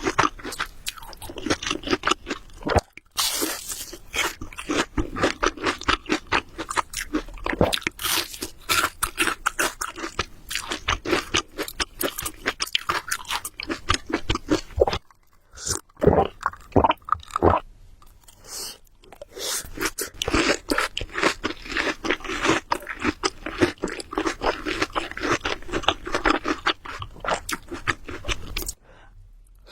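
Close-miked ASMR eating sounds: rapid wet chewing of Samyang Carbonara Buldak noodles, with a short pause about halfway through.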